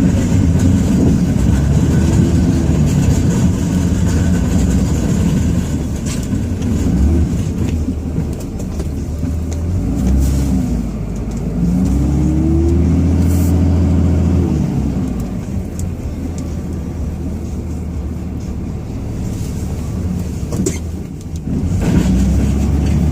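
A 2005 Dodge Ram 2500's Cummins turbo-diesel running, heard from inside the cab. Its pitch falls and then rises and falls again about halfway through.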